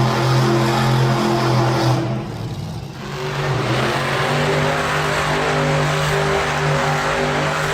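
Monster truck engine running hard at high revs. The throttle drops off briefly about two seconds in, then it revs back up and holds steady.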